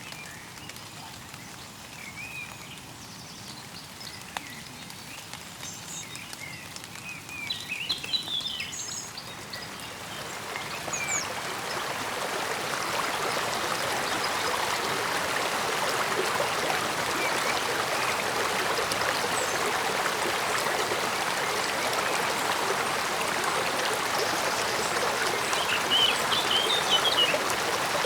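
Mountain stream flowing, its steady rush swelling about ten seconds in and then holding even. Small birds chirp over it, several short calls in the first seconds and again near the end.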